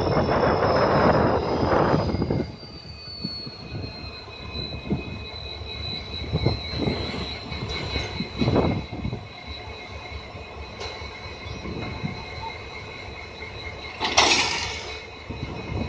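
Train running on the rails: loud rumble for the first two seconds or so, then quieter, with a steady high-pitched squeal of wheels on rail and scattered knocks. A short loud burst comes near the end.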